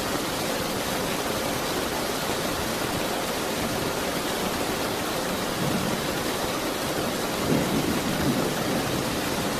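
Steady heavy rain hissing, with a low rumble of distant thunder rolling in past the middle and fading near the end.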